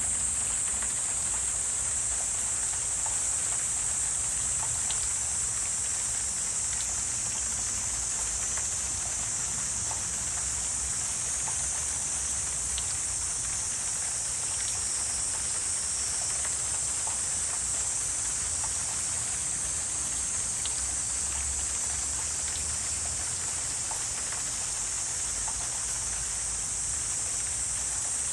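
Wetland ambience: a steady, high-pitched chorus of insects, with scattered faint ticks and a low rumble beneath.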